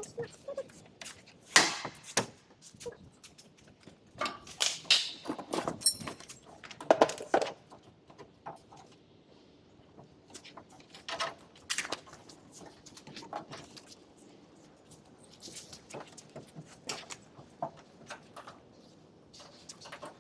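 Irregular knocks, taps and scrapes of hand work, loudest in clusters through the first half, then thinning to sparse small taps.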